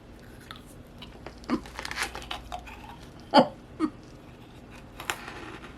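Light crunching and small crackles of someone biting into freeze-dried peppermint saltwater taffy, with a couple of short hums of the voice, the clearest about three and a half seconds in.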